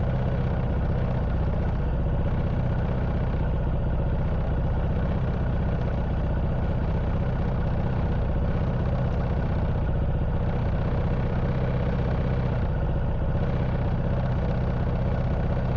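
Honda Wave 110cc motorcycle's single-cylinder four-stroke engine idling steadily at standstill, with no revving.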